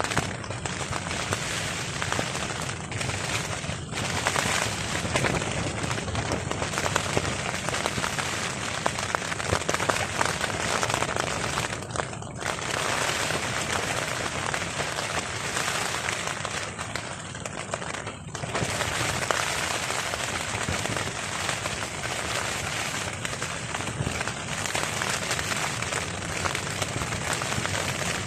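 Heavy rain pattering on a tarp: a dense, crackling patter of drops striking the fabric, steady apart from a few brief lulls.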